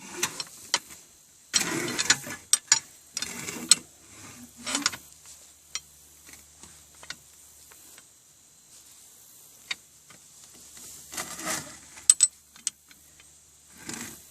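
Hand-worked ash auger of a HeatMaster outdoor wood furnace being pulled and pushed back in: irregular bursts of metal scraping and clanking with scattered sharp clicks, quieter for a few seconds in the middle. The auger is being worked to clear ashes.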